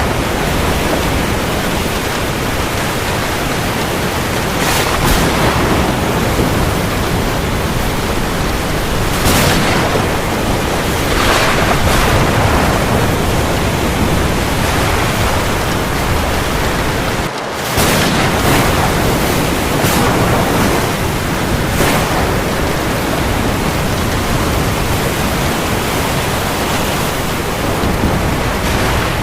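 Heavy rain falling steadily, a dense even hiss with brief louder swells every few seconds. It drops out for an instant a little past the middle.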